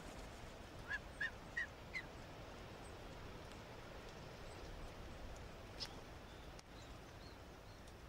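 A bird calls four short, slightly rising notes in quick succession about a second in, over a steady faint outdoor hiss. A single faint click comes near the six-second mark.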